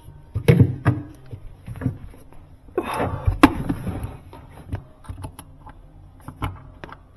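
Scattered clicks and knocks of hand work with a screw and screwdriver at the bottom of a Sub-Zero built-in refrigerator, the screw being set into its bracket.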